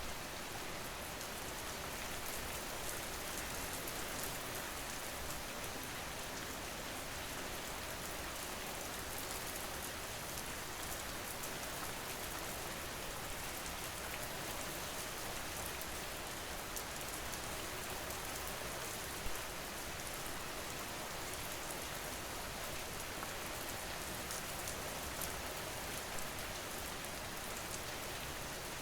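Steady rain falling, an even hiss with a few louder single drops.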